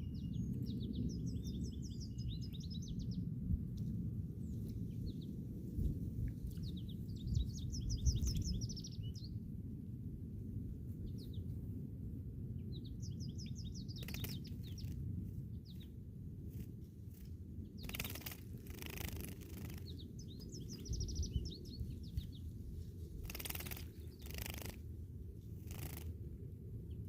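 Field sparrow singing: four short songs of rapid high notes, several seconds apart, over a steady low rumble. A few brief bursts of noise come in the second half.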